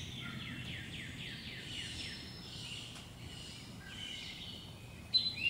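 Wild birds singing: a quick run of about eight short falling chirps in the first two seconds, then scattered whistled notes over faint outdoor background noise.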